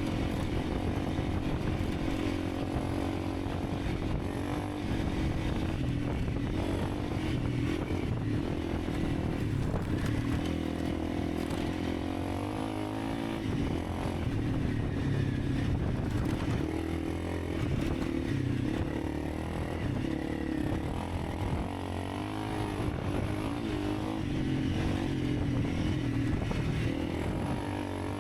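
Honda CRF300 Rally's single-cylinder engine running under way, its pitch rising and falling with the throttle.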